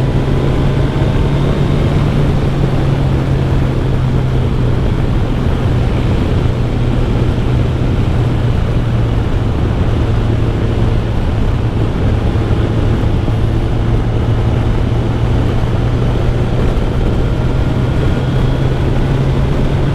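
Kawasaki Ninja 1000SX's inline-four engine running at a steady highway cruise, with heavy wind rush over the microphone.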